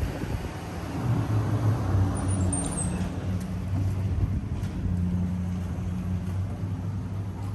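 Engine running steadily with a low, even hum. A brief high squeak comes about two seconds in.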